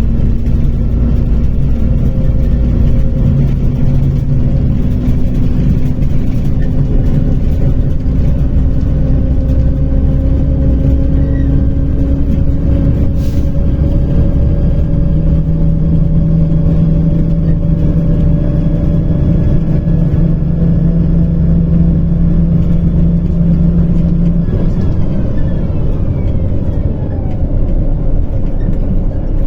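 MAZ-105 articulated city bus under way, heard from inside the passenger cabin: a steady engine and drivetrain drone whose pitch holds for long stretches. About 24 seconds in the drone changes and a falling whine follows as the bus slows.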